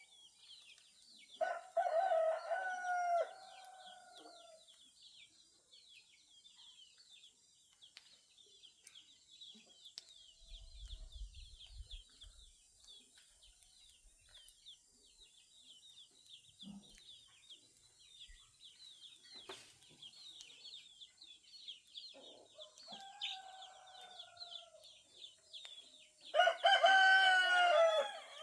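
Rooster crowing three times: a long crow a couple of seconds in, a fainter one later, and the loudest near the end. Under the crows, small birds chirp steadily at a high pitch.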